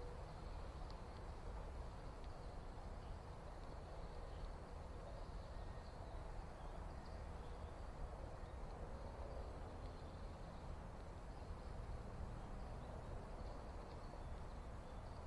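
Quiet outdoor ambience: a steady low rumble with faint, scattered high chirps from small birds.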